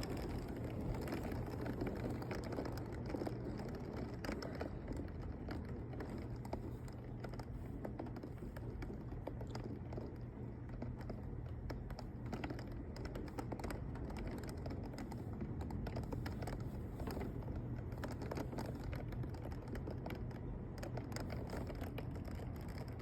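Heavy rain during a thunderstorm: a dense, irregular patter of drops hitting the edge of a window, over a steady rush of rainfall.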